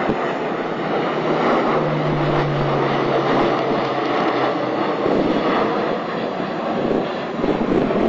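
A fixed-wing airplane's engines running loud and steady as the aircraft flies close by, with a faint low hum heard for a couple of seconds early in the sound.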